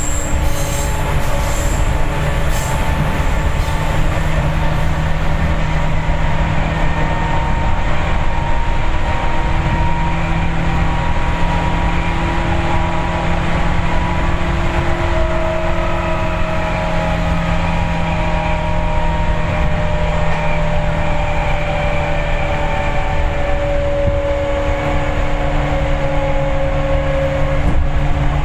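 Interior running sound of a Seibu 4000-series resistance-controlled electric multiple unit under way: steady wheel-on-rail rumble with a hum from the running gear whose pitch sags slightly in the second half.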